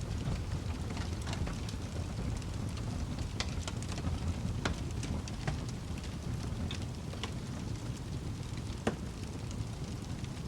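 Fire in a fireplace crackling: a steady low rumble of flames under irregular sharp pops and snaps, the loudest pop about nine seconds in.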